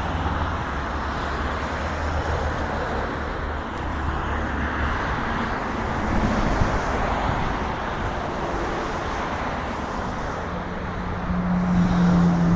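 Steady city road traffic: a continuous wash of passing cars, with one vehicle's engine hum growing louder near the end.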